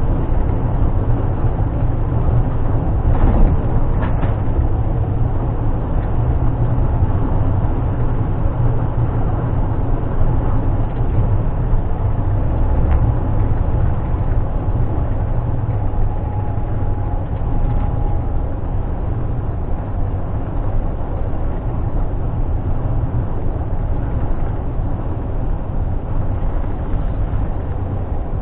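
Scania G460 truck's 13-litre six-cylinder diesel and road noise heard inside the cab while driving: a steady low drone, with a couple of faint clicks about three to four seconds in.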